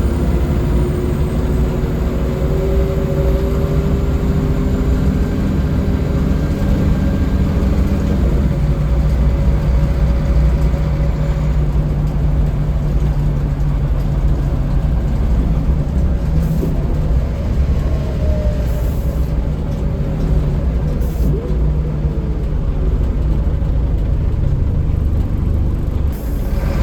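Scania L94UB city bus's diesel engine running under way, heard from inside the bus, with road and cabin noise. The engine note rises and falls as the bus changes speed, most noticeably a little past the middle.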